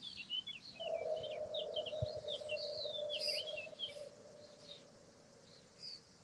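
Songbirds chirping and twittering in quick high notes. A single steady tone comes in about a second in and fades away over about four seconds.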